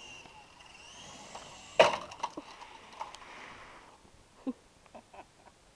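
Radio-controlled helicopter's motor whining and rising in pitch, then a loud crash a little under two seconds in as it hits and smashes, with a few clattering knocks of broken parts after it.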